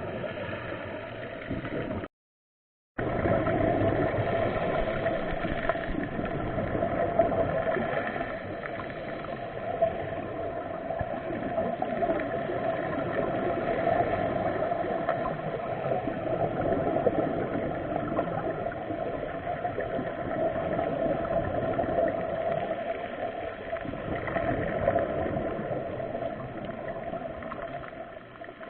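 Continuous muffled water noise with gurgling and a steady hum underneath. The sound drops out completely for about a second, about two seconds in.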